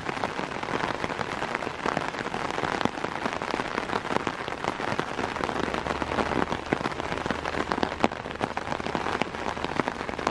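Steady rain, with a dense stream of close drops striking the fabric of an open umbrella overhead.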